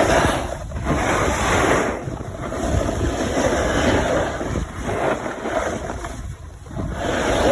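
Wind rushing over the microphone of a camera moving at speed downhill, a loud noise that swells and dips every second or two.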